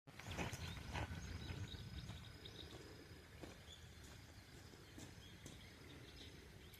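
Quiet outdoor ambience with faint high chirping, and a few soft knocks in the first second or two.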